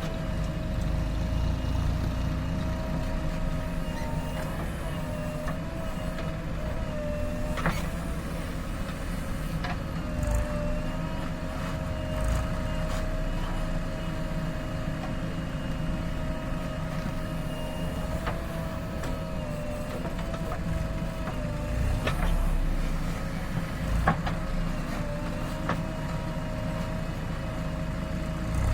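JCB 3DX backhoe loader's diesel engine running steadily, with a steady whine that dips and rises slightly as the machine works. A few short knocks come through.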